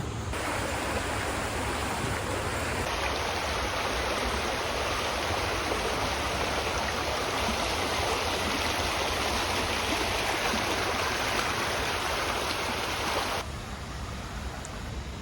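Steady rushing of water, as from a stream or small waterfall, with abrupt shifts in tone near the start and near the end.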